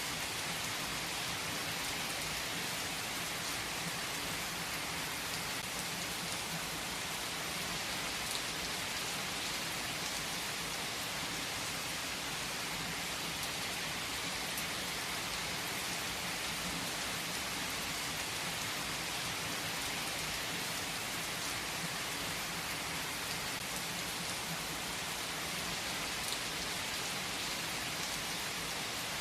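Steady rain, an even hiss with a few sharper drop ticks.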